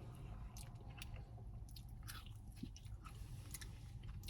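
Faint mouth sounds of a person eating a soft-serve Blizzard with candy pieces: scattered small clicks and smacks over a low steady hum.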